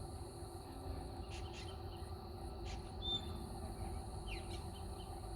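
A few short, high bird chirps and one brief whistle about three seconds in, over a steady high-pitched insect drone and a low background rumble.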